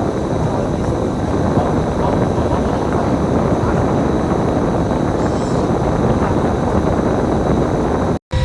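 Steady running noise of a moving bus, engine and road noise mixed, which cuts out abruptly for a split second near the end.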